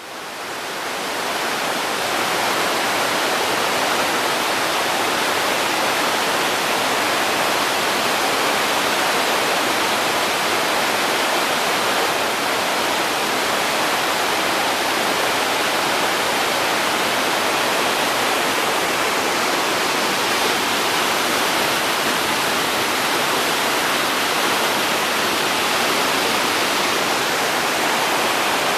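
Waterfall at normal flow, a steady rush of falling water heard close up from a rock partway down the falls; it fades in over the first second or two.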